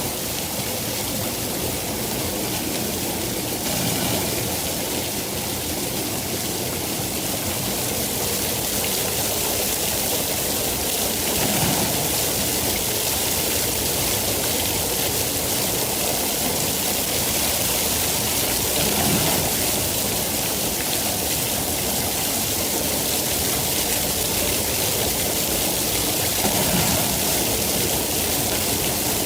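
Steady rain hissing evenly, with a few brief low swells, about every seven or eight seconds.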